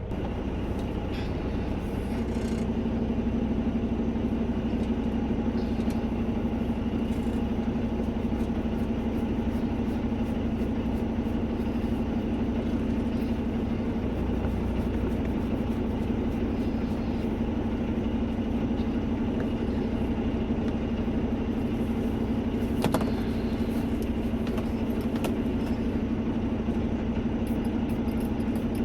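Truck engine running with a steady hum that sets in and grows a little louder about two seconds in, as the truck moves off. A single sharp click sounds once near the end.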